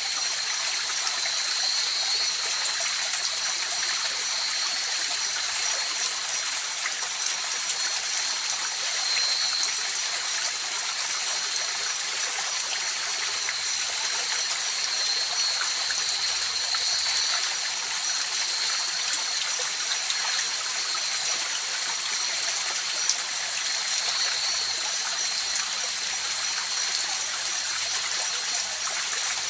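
Mountain river flowing steadily, a continuous rushing and trickling of water, with a steady high-pitched chorus of night insects over it.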